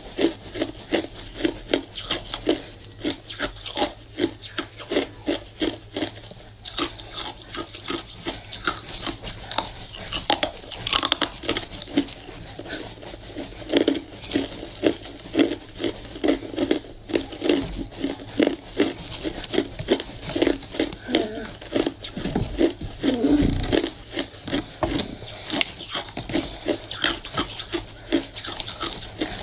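Hard ice being bitten and chewed close to the microphone: a steady run of sharp crunches, several a second.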